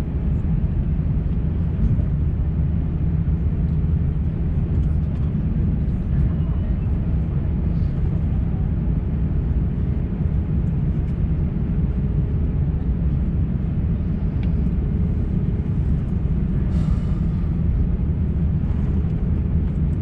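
Steady low rumble of an Airbus A350-900's Rolls-Royce Trent XWB engines and airflow, heard inside the passenger cabin from a window seat, with a faint steady hum running through it.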